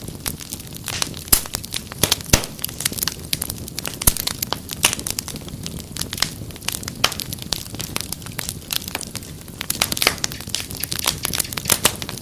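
Wood fire crackling steadily, with frequent sharp pops and snaps at irregular intervals over a low hiss.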